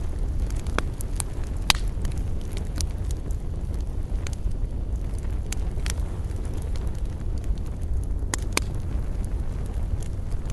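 Wood campfire crackling: sharp pops at irregular intervals over a steady low rumble.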